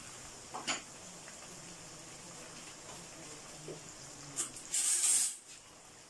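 Chicken pieces frying in oil in a non-stick wok, a soft steady sizzle. A louder, short hiss comes about five seconds in, and a light click sounds near the start.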